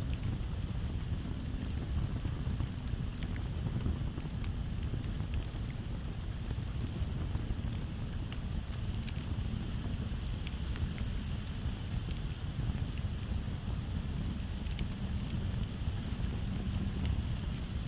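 Campfire crackling, with scattered sharp pops and snaps over a steady low rumble. Crickets chirr continuously in a steady high band behind it.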